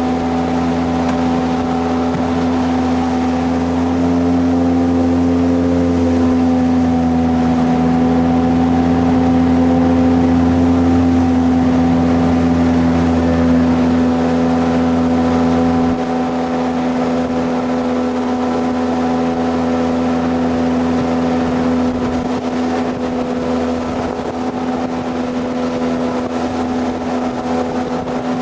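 Jet boat engine running steadily under way, a constant loud note with a low rumble. About halfway through the low rumble drops away and it gets slightly quieter.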